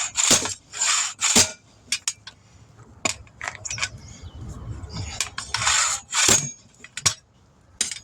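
Metal tools and wheel hardware being handled during a tire change: scattered clinks and scrapes of metal on metal, with several short rushing bursts.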